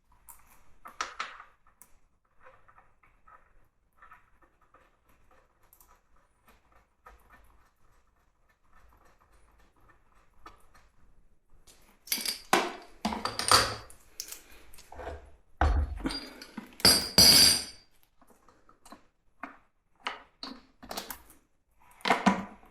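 Metal parts and hand tools being handled: scattered light clicks, then a run of loud knocks and clatters about halfway through.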